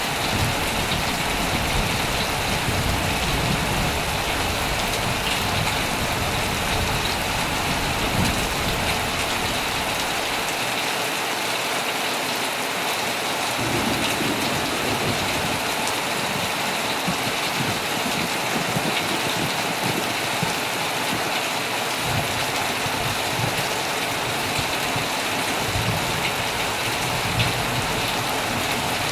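Heavy rain drumming steadily on a tent, with a low rumble of thunder that fades away for a few seconds in the middle and then returns.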